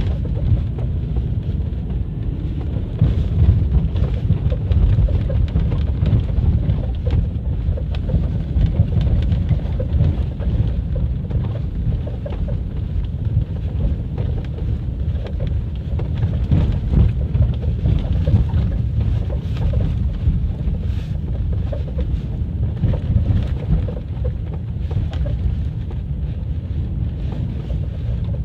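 Nissan X-Trail T32 heard from inside the cabin while driving over a rough road: a heavy low rumble from the tyres and body, with scattered short knocks and creaks from the suspension. It is the suspension creak that shows up in sub-zero temperatures on uneven surfaces.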